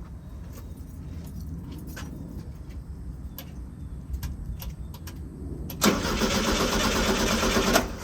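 1973 VW Super Beetle's air-cooled flat-four engine being cranked by the starter for about two seconds, starting about six seconds in and stopping abruptly, without catching: the engine is not getting spark. Faint clicks come before it.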